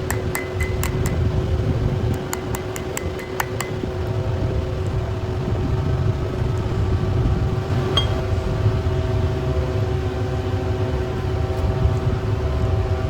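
A machine running steadily with a low hum, with a series of sharp light metallic clicks over the first few seconds.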